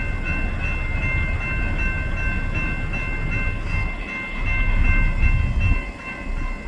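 Railroad grade-crossing bell ringing at a quick, even rate, its ringing tones steady over a heavy low rumble that drops away briefly about four and six seconds in.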